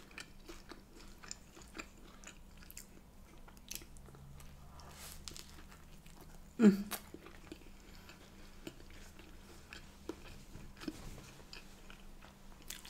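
Close-miked chewing and biting of a filled crusty bread bun, with small wet mouth clicks throughout. About six and a half seconds in comes one short, louder vocal sound that falls in pitch.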